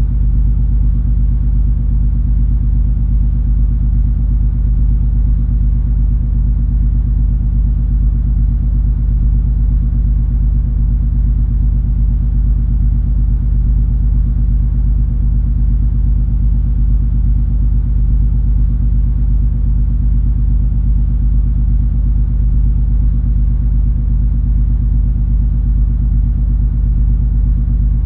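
Cruise ferry MS Color Magic running under way, heard aboard as a steady, deep engine rumble with a low hum that does not change.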